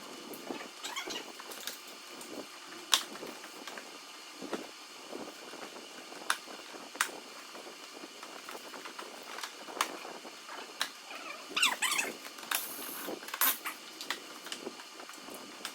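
Scattered clicks, taps and light knocks of hand work on a car's underbody trim, with a cluster of short squeaks, likely plastic panels and fasteners, near the end, over a steady hiss.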